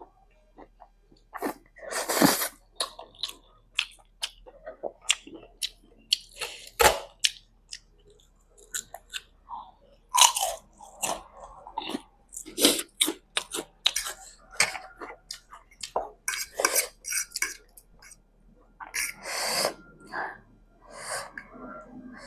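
Close-miked chewing of Current spicy instant noodles: irregular wet smacks and crunches, with louder bites about 2, 7 and 10 seconds in.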